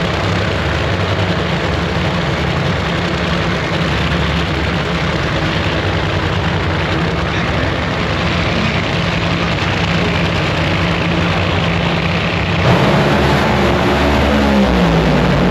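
A loud engine running steadily. Near the end a second engine note comes in and falls in pitch.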